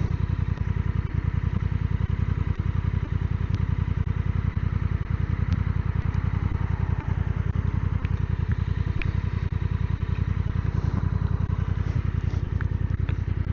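Motorcycle engine running steadily, with a rapid, even pulse of firing strokes.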